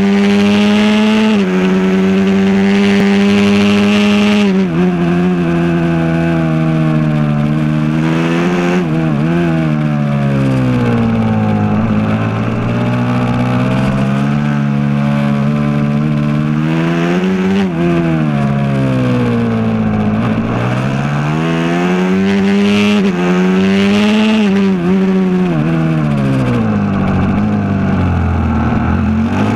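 Aprilia SXV 450 supermoto's V-twin engine at racing revs, recorded onboard. The pitch climbs through the gears, then drops sharply under braking into corners, lap after lap.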